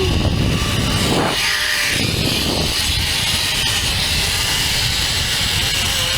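Zipline trolley running along the steel cable, a steady high whine over a loud rush of wind on the microphone during the ride.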